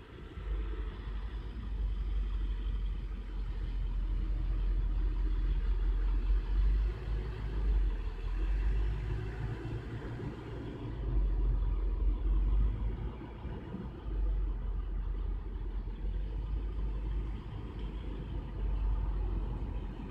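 A motor vehicle's engine idling: a low, steady rumble that swells and eases a few times.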